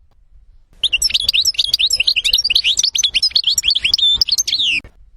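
European goldfinch singing one fast, continuous song phrase of rapid twittering chirps and trills, starting abruptly about a second in and cutting off sharply about a second before the end.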